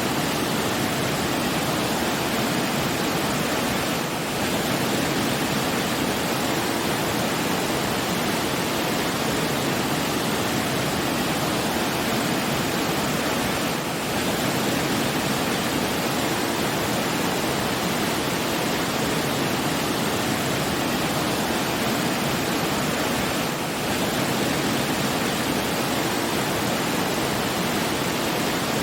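Steady rushing water, an even wash of noise with no distinct events, dipping briefly in level about every ten seconds.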